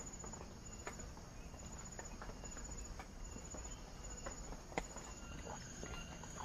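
Forest insect chirping: short, high trains of rapid pulses repeating a little more than once a second. Scattered faint ticks, with one sharper click about five seconds in.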